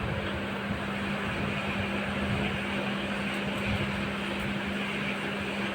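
Steady running noise of a moving passenger train heard from inside the coach, with a constant low hum under it.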